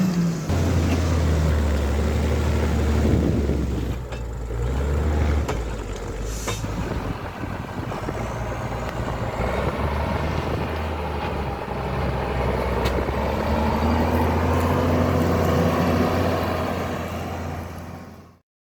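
Diesel farm tractor engine running under load, a steady deep hum with mechanical noise above it; the sound fades out near the end.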